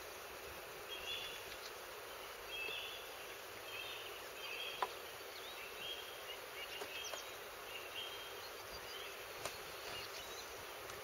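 Faint, steady outdoor hiss with a distant bird calling over and over, one short note about every second, and a couple of soft clicks.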